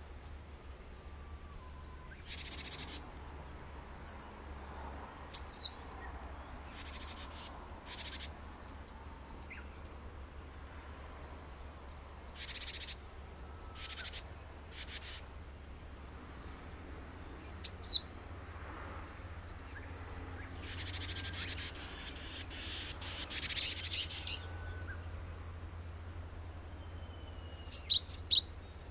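Japanese tit calling in agitation: three loud bouts of sharp, high chirps, about five seconds in, about eighteen seconds in and near the end, with short harsh buzzing calls between them that come thickest just past the middle.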